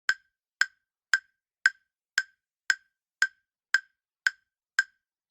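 Clock-like countdown ticking sound effect: ten short, evenly spaced ticks, about two a second, then a higher click right at the end.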